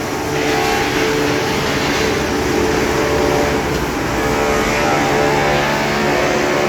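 Poultry-feed pelleting line running: steady, loud machinery noise with a hum of several steady tones.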